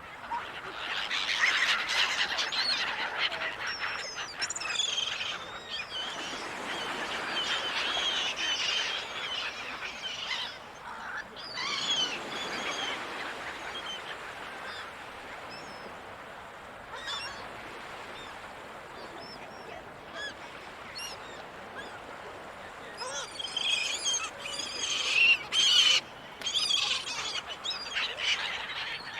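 Gulls calling in a crowd of overlapping squawks and cries over a steady noisy background. There are bursts of calling early on and about halfway, and the calling is busiest and loudest near the end.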